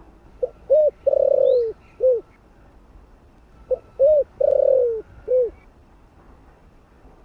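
Spotted dove giving its calling coo: two identical phrases about three seconds apart, each a short note, an arched note, a long falling note and a final arched note. Faint high chirps of a small bird sound in the background.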